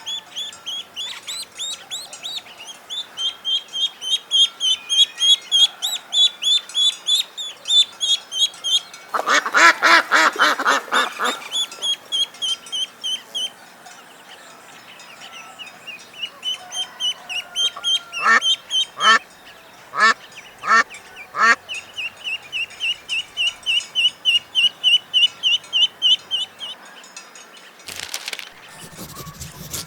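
Ducklings peeping in rapid high runs, with an adult duck quacking: a loud fast run of quacks about nine seconds in, and five separate quacks around twenty seconds in.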